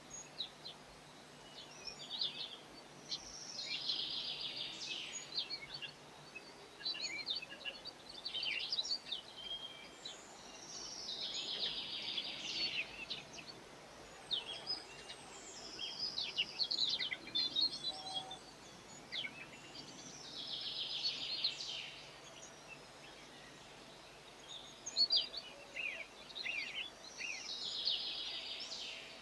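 A songbird singing the same two-to-three-second phrase four times, about every eight seconds, with short high chirps from small birds in between.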